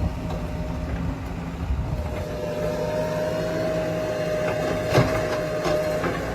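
A heavy vehicle's diesel engine running steadily, with a thin steady whine over it and a single sharp clank about five seconds in.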